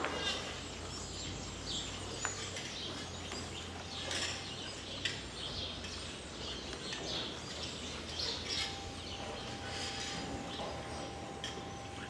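Small birds chirping in short, scattered calls over a steady low hum, with a faint steady tone coming in about two-thirds of the way through.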